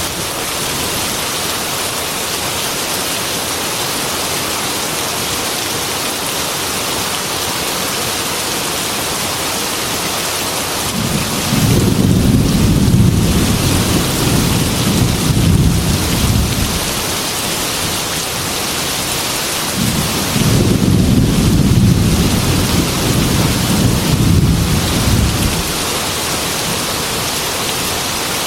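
Heavy rain falling steadily, with two long low rolls of thunder: the first about eleven seconds in, the second about twenty seconds in, each lasting around five seconds.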